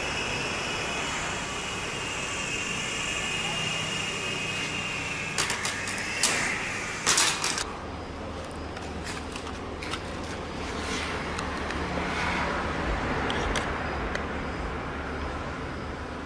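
Steady high whine of a small electric motor that stops about five seconds in, followed by a few sharp knocks and clatter, then a low hum with scattered ticks.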